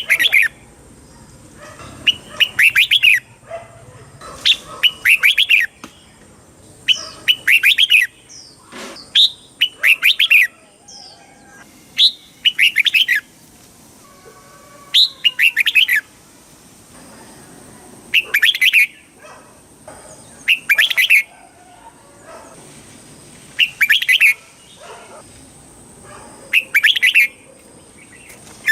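Red-whiskered bulbul singing: short, bright warbled phrases repeated every two to three seconds.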